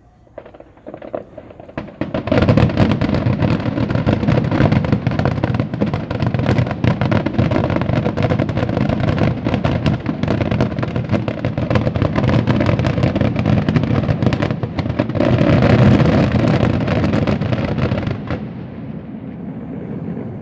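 Fireworks display: a few single shell bursts, then a dense rapid barrage of bangs and crackle with no gaps, swelling near the end before cutting off and leaving a fading echoing rumble.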